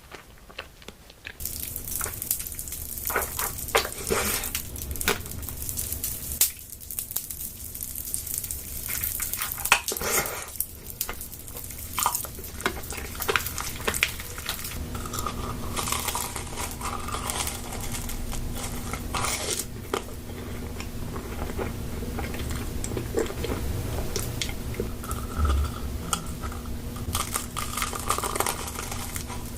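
Close-miked eating sounds: a run of bites, chewing and crunching with small clicks of utensils against dishes.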